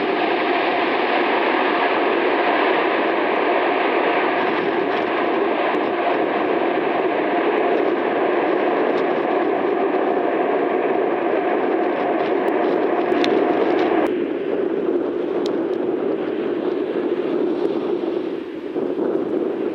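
Jet airliner engines running loud and steady, a rushing roar with a high whine over it. About two-thirds of the way through the whine and upper hiss drop away suddenly, leaving a duller rush.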